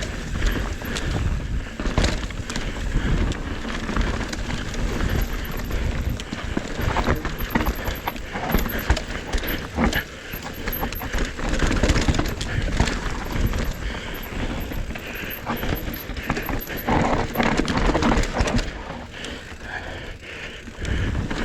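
Mountain bike riding down a rough trail: tyres on dirt and rocks, with the chain and frame rattling in constant clicks and knocks and a low rumble of wind on the microphone.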